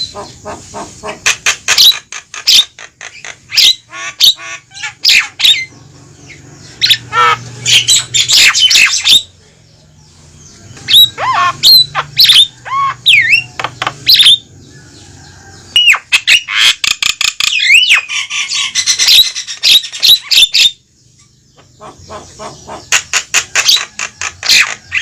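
Javan mynas calling noisily: rapid runs of harsh, chattering squawks mixed with whistled, slurred notes, in several bursts with brief pauses between them.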